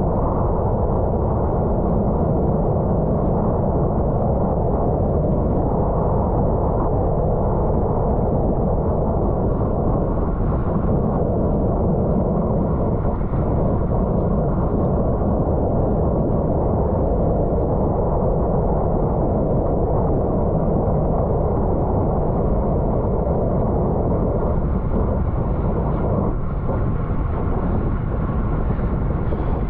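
Steady wind rush buffeting the microphone of a camera mounted on a road bike ridden hard at racing speed.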